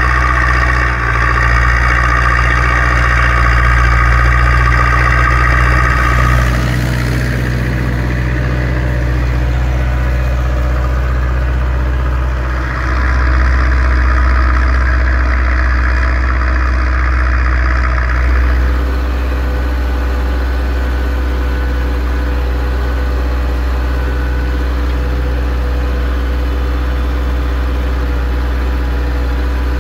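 Zetor 6245 tractor's four-cylinder diesel engine running steadily while pulling a three-furrow reversible plough. A louder, higher-pitched noise rides on top for the first six seconds and again for about six seconds in the middle.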